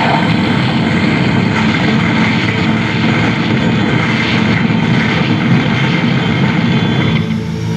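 Harsh noise wall performance: a loud, dense, unbroken wall of distorted electronic noise. Near the end the upper part drops away, leaving a lower, steady drone.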